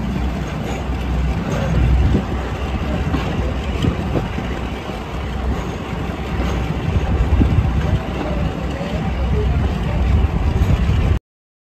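Diesel-hauled heritage train running slowly along a platform, heard from an open coach window: a steady low rumble with wind buffeting the microphone. The sound cuts off suddenly near the end.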